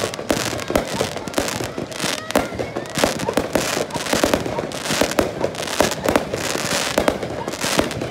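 Aerial fireworks shells bursting in rapid succession: a dense, irregular run of bangs, several a second.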